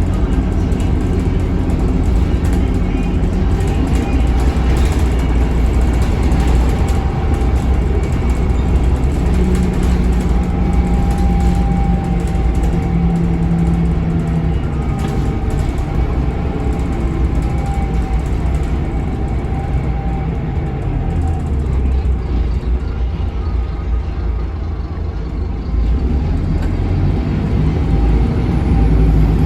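Scania K280UB city bus under way, its Scania DC9 280 hp five-cylinder diesel and ZF Ecolife automatic giving a steady low rumble with a faint whine in the middle. The engine note eases off about three quarters of the way through, then builds again near the end.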